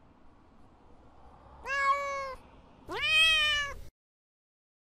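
Domestic cat meowing twice, about two seconds in and again about a second later. The second meow is longer and rises in pitch at its start.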